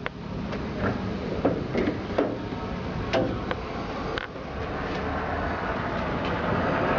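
Light clicks and knocks from hands working on a washing machine, scattered at irregular intervals over a steady background hiss.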